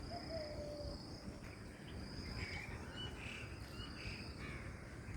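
Birds calling in short phrases over an insect's repeated high trill, with a low rumble of wind on the microphone underneath.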